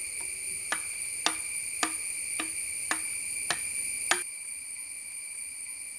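About seven sharp chops of a blade into a wooden stick, a little under two a second, as the stick is shaped, over a steady high chirring of crickets.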